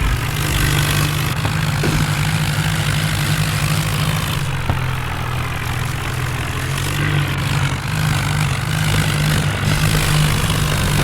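Diesel tractor engine running steadily and loudly.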